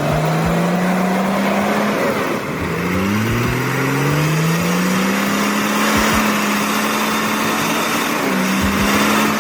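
Six-cylinder turbo-diesel truck engine revving hard under load while the heavily laden log truck is stuck in mud. The pitch climbs at the start, drops about two seconds in, climbs again and holds, then dips briefly near the end.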